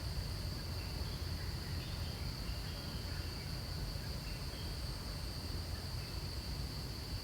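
Steady, continuous high-pitched drone of insects in outdoor vegetation, over a constant low rumble, with a few faint brief chirps.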